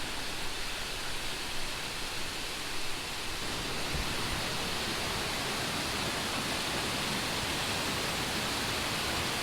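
Steady rush of water from two waterfalls and the stepped cascades below them, getting a little fuller about three seconds in.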